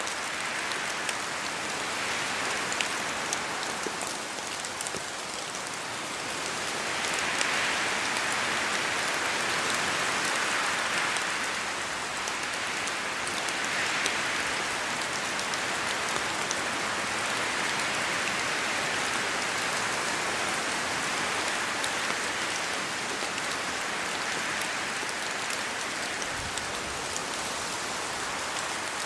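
Steady rain falling through forest trees, with drops pattering on the leaves. The downpour swells louder for several seconds about a quarter of the way in and again near the middle, then evens out.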